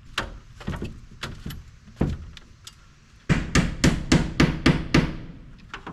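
Sharp knocks on a T1-11 plywood siding panel being fitted: a few scattered knocks, then about eight quick, evenly spaced blows near the end.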